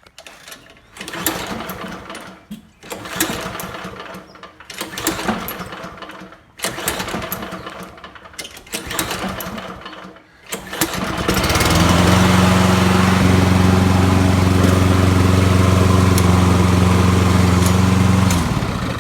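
Lawn Boy walk-behind mower's small gasoline engine, after about eleven seconds of irregular clattering, starts and runs steadily at one speed for about seven seconds, then is shut off near the end. The mower is a little hard to start, and its carburetor probably needs cleaning.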